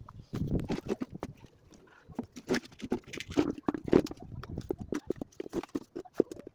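Irregular clicks, knocks and rattles of hard parts and tools being handled, like hose clamps and plastic intake pieces, in quick uneven runs.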